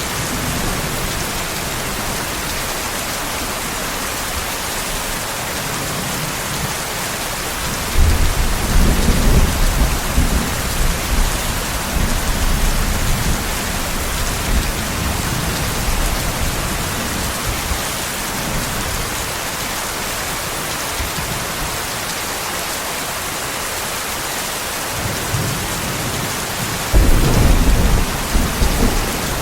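Steady rain with thunder rolling twice: a low rumble starts about eight seconds in and rolls on for several seconds, and another begins near the end.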